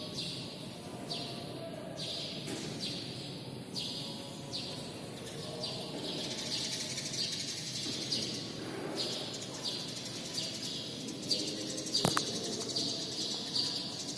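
Sparrows chirping over and over, short high chirps about two a second, growing busier and overlapping in the second half. A single sharp click about twelve seconds in.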